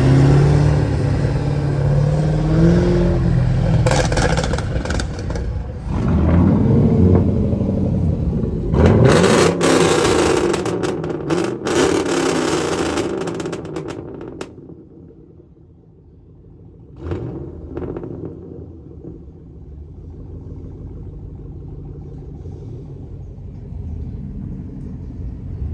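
Car engines revving and accelerating, rising in pitch twice in the first half, with a loud rough stretch in the middle. Then it settles to a low engine rumble, broken by one short sharp sound near the end.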